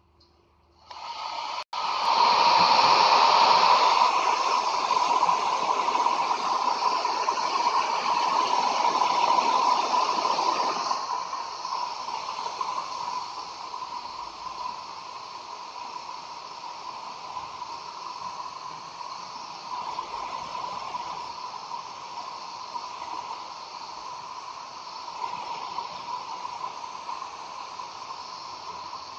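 A steady hissing, rushing noise with a faint steady tone in it, starting suddenly about a second in, louder for the first ten seconds or so and then dropping to a lower, even level.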